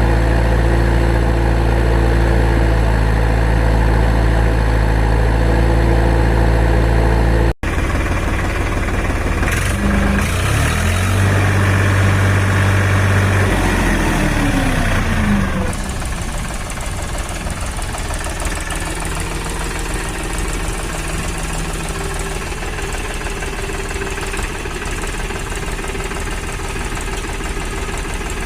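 Heavy vehicle engine sound running steadily at a low pitch. It cuts off abruptly about seven and a half seconds in, then the engine note slides up and down in pitch for several seconds. After that it settles into a quieter, steady run.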